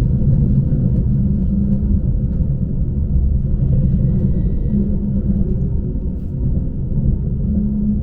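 Steady low rumble of a Lastochka electric train running along the track, heard from inside the carriage.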